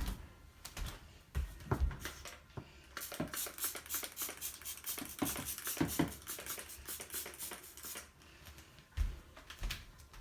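Handling noises: a few scattered knocks, and in the middle a run of rapid light clicking and rustling.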